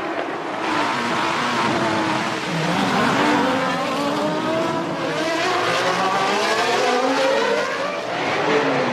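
Engines of several 1993 Formula One cars running at high revs, their pitch rising and falling through gear changes as they pass in close succession.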